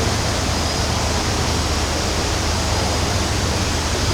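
Steady rushing of water, even and unbroken, with a deep rumble underneath.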